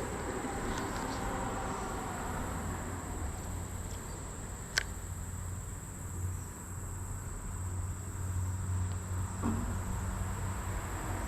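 A steady, high-pitched drone of insects singing, over a low rumble, with a single sharp click about five seconds in.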